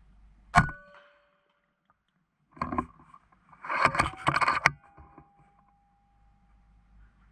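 A single suppressed shot from an Epic Two .22 PCP air rifle about half a second in, with a short ringing tone after it. About two seconds later comes a burst of rustling and clicking lasting around two seconds.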